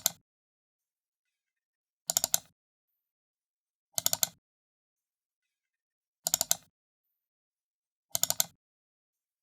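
Computer mouse button double-clicked repeatedly: each double click is a quick cluster of sharp plastic ticks, coming about every two seconds, with dead silence between.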